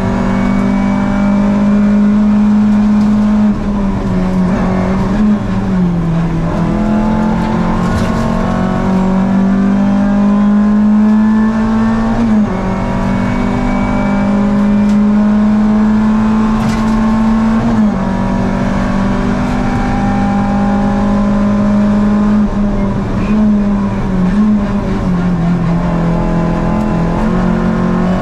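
Rally car engine running hard at high revs, heard from inside the cabin. The engine note holds mostly steady and dips briefly several times.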